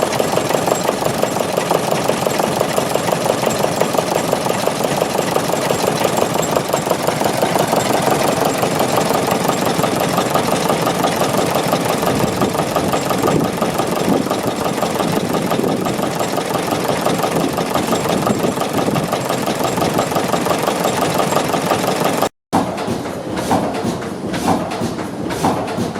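MWM RH18Z two-cylinder stationary diesel engine running with a rapid, even beat. About 22 seconds in the sound cuts out briefly, then gives way to another engine with slower, separate beats.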